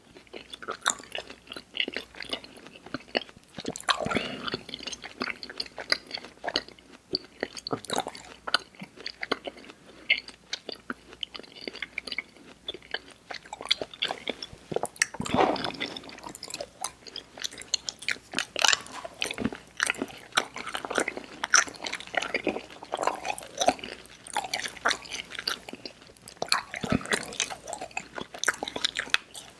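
Close-miked mouth sounds of chewing Airheads Xtremes sour chewy candy: an irregular stream of wet smacks and sticky clicks.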